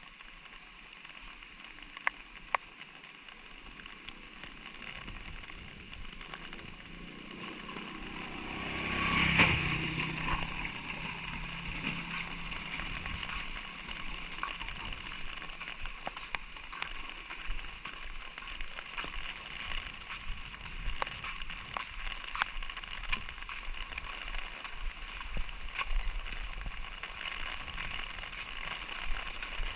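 Light rain falling with scattered drops ticking. A motor vehicle approaches and passes close by about nine seconds in, then fades.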